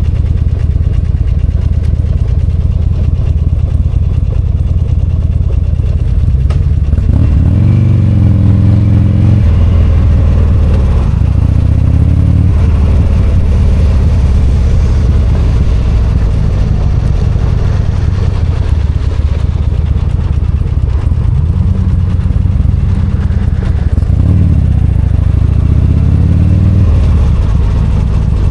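V-twin motorcycle engine running while riding, its revs rising and falling about seven seconds in and again over several seconds past the twenty-second mark, over steady road and wind noise.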